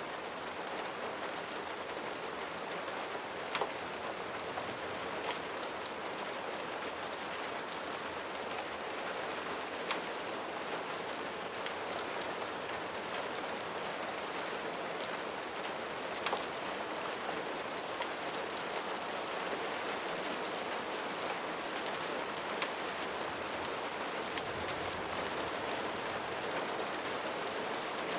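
Steady rain falling and pattering on a surface, with scattered sharp ticks a few seconds apart.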